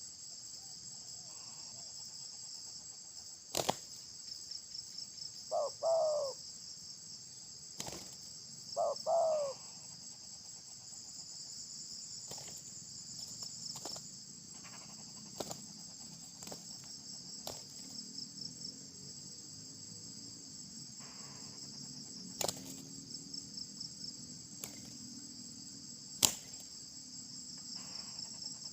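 Steady high chorus of insects, with a dove giving short two-note falling coos twice, about six and nine seconds in. A few sharp clicks stand out over the chorus.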